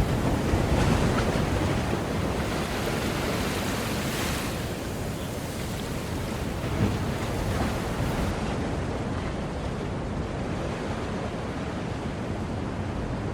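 Ocean waves washing onto the shore in a continuous surf. It swells loudest in the first couple of seconds, then eases into a softer, duller wash in the second half.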